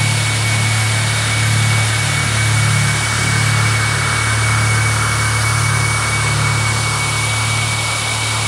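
Four-wheel-drive vehicle's engine running steadily, under an even rushing hiss.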